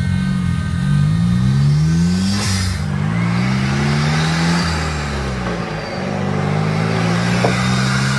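VUHL 05's turbocharged engine under way: it revs up, drops back as a gear is changed, revs up again, then falls away and settles to a steady cruise near the end.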